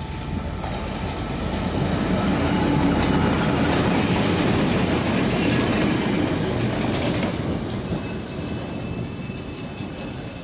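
A train passing on the track: locomotive and wagons running by with wheels on the rails. It builds to its loudest about a third of the way in, then slowly fades.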